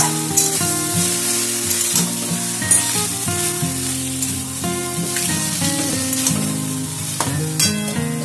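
Taro greens and hilsa fish heads sizzling in a kadai while a flat spatula stirs and scrapes the pan, with a few sharper scrapes. Background instrumental music plays under it.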